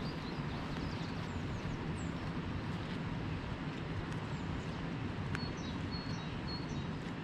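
Small birds chirping, with a few short whistles near the end, over a steady rushing background noise.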